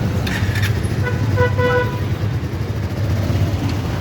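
Steady low rumble of motor vehicles on a road, with two short vehicle-horn beeps about a second and a half in.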